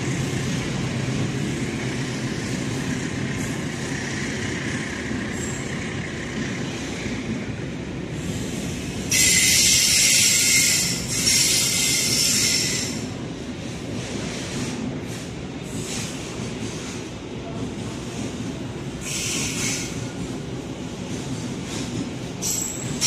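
Container freight wagons rolling past on the rails with a steady rumble. A loud, high-pitched wheel squeal lasts about four seconds midway, and shorter squeals come near the end.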